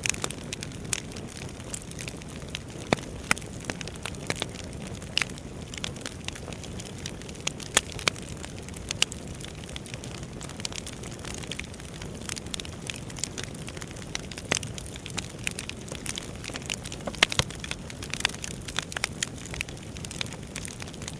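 Wood fire crackling steadily, with irregular sharp pops and snaps over a low rushing hiss of the flames.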